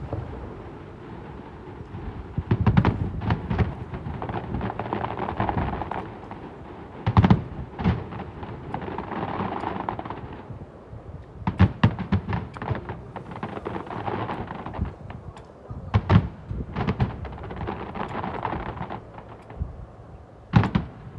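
Aerial fireworks display: shells bursting in a series of sharp booms a few seconds apart, over a steady rushing, crackling noise that swells between the bursts.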